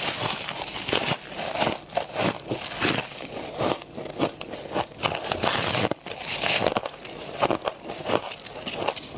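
Close-up bites and chewing of powdery humidifier frost: a dense, irregular run of crisp crunches and crackles.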